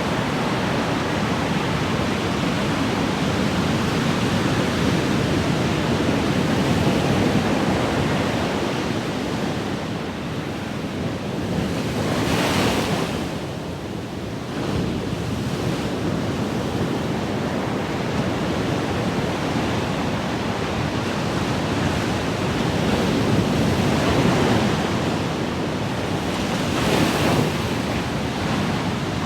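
Ocean surf: waves breaking and washing in as a continuous rushing that swells and ebbs, with a louder, hissier wash about twelve seconds in and again near the end.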